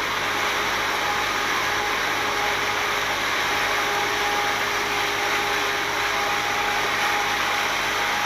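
Boat engine running steadily: an even rushing drone with a faint steady whine held through it.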